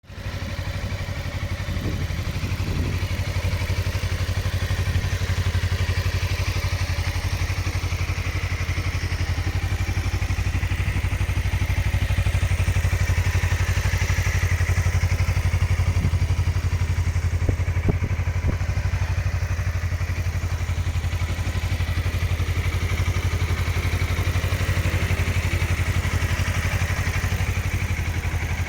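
2017 Suzuki GSX250R's 248 cc parallel-twin engine idling steadily through its stock muffler, with no revving, and a few faint clicks.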